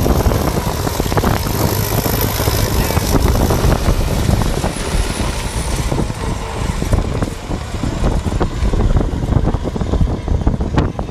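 DT-75 crawler tractor's diesel engine running hard under load, a loud, continuous low rumble.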